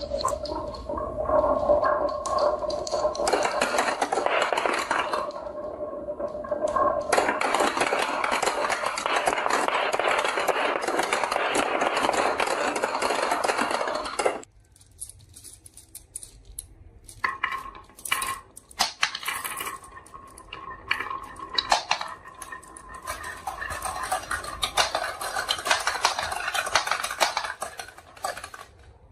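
Marbles rolling and clattering down a marble run: a dense continuous rattle of many marbles that cuts off suddenly about halfway through, followed by scattered separate clicks and clinks as single marbles knock along the track.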